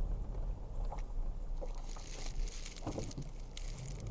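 Inside the cab of a 2008 Toyota Tacoma while driving: steady low engine and road rumble, with a hiss joining about halfway and a few faint clicks. The engine is running smoothly, without a miss.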